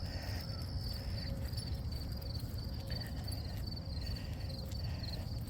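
Crickets chirping in a steady, evenly pulsed trill, over a low rumble.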